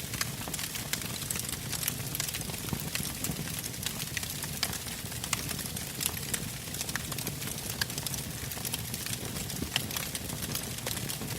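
Burning wood logs crackling and popping irregularly, with many sharp snaps over a low steady rumble of the flames.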